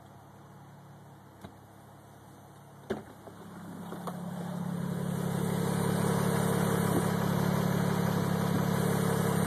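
A car's unexplained humming drone, the weird noise under investigation. After a click about three seconds in, it swells over a couple of seconds over the idling engine, then holds steady at a constant pitch.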